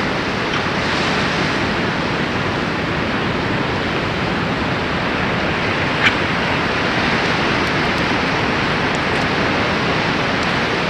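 Steady rushing noise of ocean surf and wind at a pier, with one short click about six seconds in.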